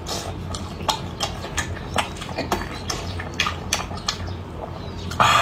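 Close-miked chewing of a mouthful of braised beef: irregular wet smacks and mouth clicks, with one louder wet smack near the end.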